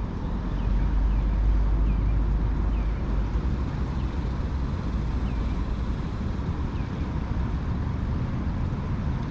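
Wind buffeting the microphone as a steady low rumble, strongest in the first few seconds, with a few faint short chirps above it.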